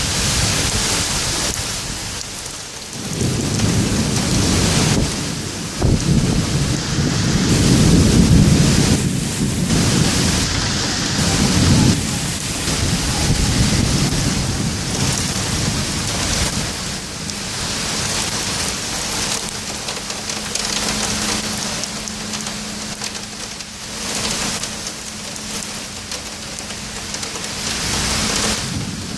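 Torrential thunderstorm rain pouring steadily, with deep rumbles of thunder swelling and fading through the first half.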